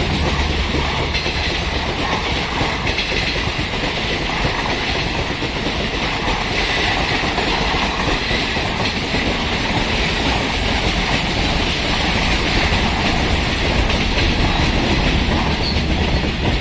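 Freight wagons of a long military heavy-equipment train rolling past steadily, their wheels running over the rails.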